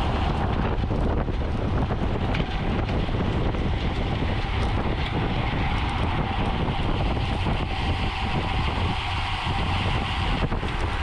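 Steady wind rushing over the microphone, mixed with the road and tyre noise of a bicycle being ridden.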